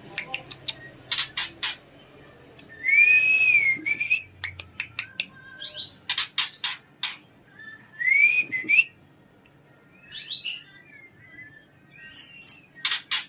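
Female white-rumped shama calling: clusters of sharp, dry clicking 'tek' calls, a few short arching whistled notes, and a brief harsh rasp about three seconds in.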